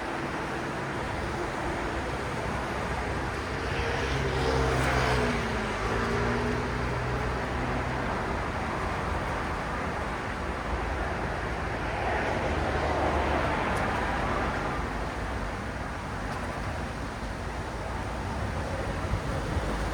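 City road traffic: a steady rumble of tyres and engines, with a vehicle passing close about four to six seconds in, its engine tone dropping in pitch as it goes by, and another vehicle swelling past around twelve seconds in.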